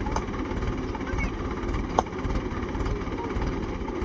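Tractor diesel engine running with a steady low rumble, and a single sharp metallic click about two seconds in.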